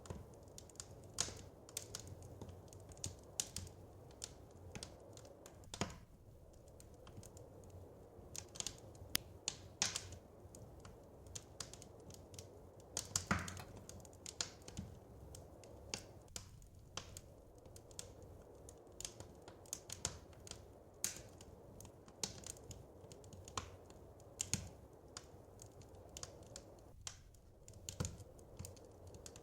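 Wood fire crackling in a fireplace: irregular sharp snaps and pops over a soft, steady low rumble, with one louder pop about halfway through.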